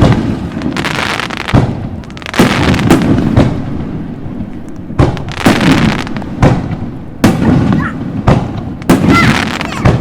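Aerial fireworks shells bursting in quick succession: a dozen or more sharp bangs, roughly two a second in clusters, each followed by a lingering rumbling decay.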